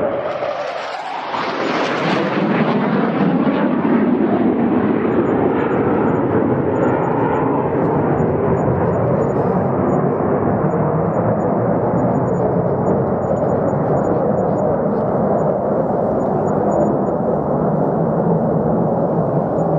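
Fighter jet engine noise. In the first two seconds a jet sweeps past with a sudden rise and fall in pitch, then a loud, steady jet rumble continues and slowly grows duller.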